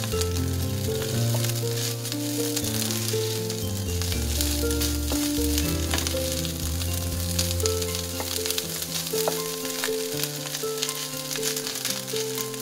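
Egg fried rice sizzling in a hot nonstick frying pan, a steady crackling hiss as a spatula stirs and spreads the rice to crisp it. Background music with held notes plays under it.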